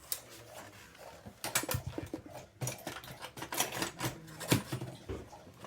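Irregular light clicks and taps in short clusters, with a few sharper knocks about halfway through.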